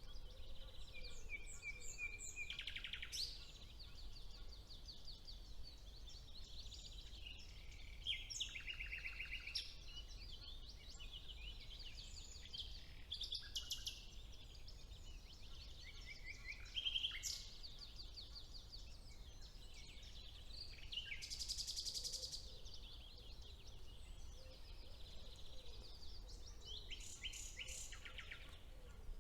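A chorus of several songbirds singing over one another in spring woodland: rapid trills, clear whistles and fast runs of repeated notes, one after another with no pause. A faint steady low rumble of background noise runs beneath them.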